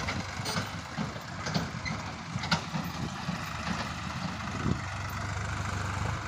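A vehicle engine running at a steady idle, with scattered clicks and knocks; the low hum grows stronger about three-quarters of the way through.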